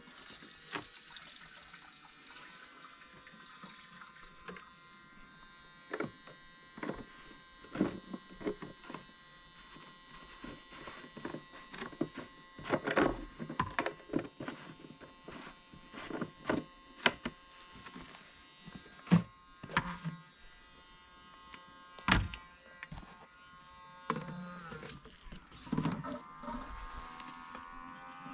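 Small electric motor whining steadily, with scattered knocks and clunks throughout.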